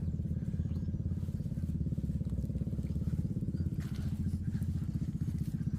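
Small motorcycle engine running steadily at an even speed, a fast, even putter.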